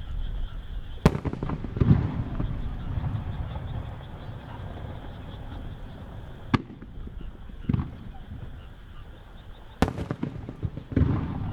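Aerial firework shells bursting one at a time overhead: three pairs of bangs a few seconds apart, each a sharp crack followed about a second later by a deeper boom, with a low rolling rumble in between.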